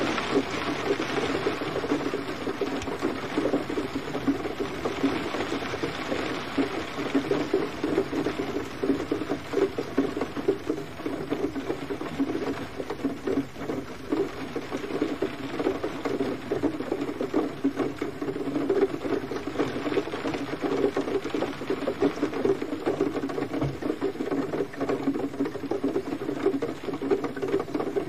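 Steady gentle rain, a dense patter of small drops.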